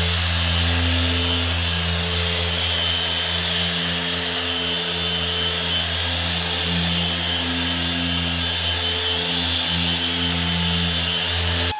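Dual-action machine polisher (Krauss Shine Master S8) running steadily on car paint, a constant motor hum with a hiss on top.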